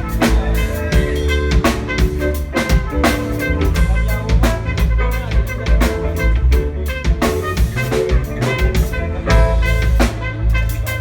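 Live band playing instrumental music: a drum kit with steady kick and snare hits, a deep bass line, and held chords.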